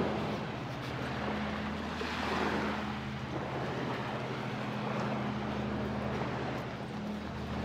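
Waves washing in on a sandy beach, swelling and falling back every few seconds, over a steady low engine hum.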